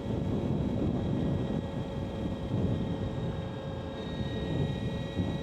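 Energica Experia electric motorcycle cruising at a steady speed: wind and road rumble with a steady high whine from the electric drivetrain.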